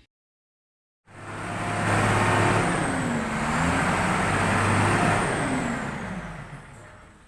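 Truck engine running, fading in after a second of silence and fading out near the end, its pitch dipping and rising twice along the way.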